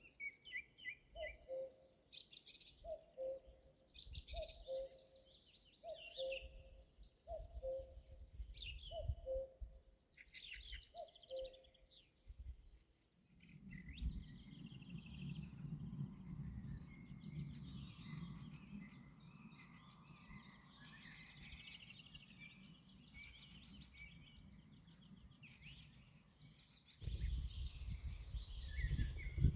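Wild birds singing, several high songs and chirps overlapping. For the first twelve seconds a low two-note call repeats about every second and a half. From about thirteen seconds in a steady low rumble sits under the birdsong, louder near the end.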